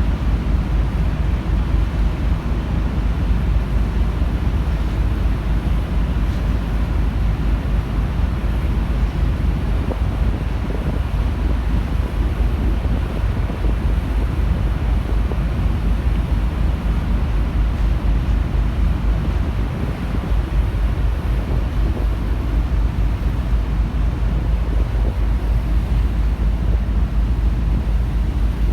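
Steady wind buffeting the microphone over a constant low rumble, aboard a car ferry.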